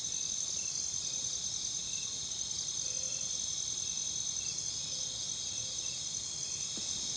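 Night insect chorus of crickets, a steady high-pitched trilling with softer chirps repeating over it.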